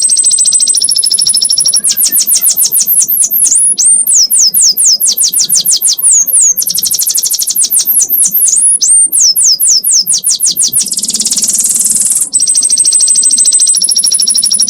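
Domestic canary singing a long, unbroken song, the continuous style called ngekek: high-pitched rapid trills of quickly repeated notes alternating with held whistled notes and fast downward-sweeping notes.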